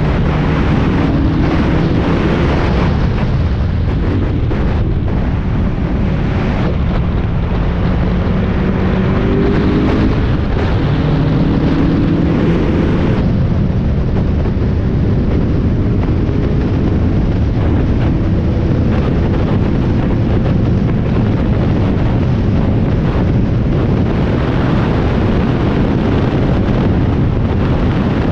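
Spec Miata race car's four-cylinder engine running hard on track, with heavy wind buffeting on the microphone. The engine note climbs in pitch several times and drops off about halfway through.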